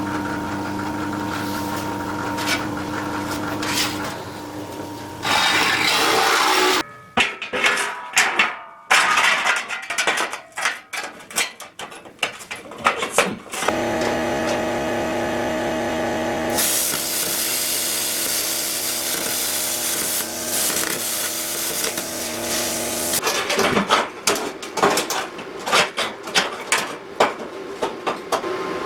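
Metalworking on steel: stretches of steady hissing alternate with runs of irregular crackling and clicking, as of plasma cutting and gasless flux-core welding, with a steady humming tone near the start.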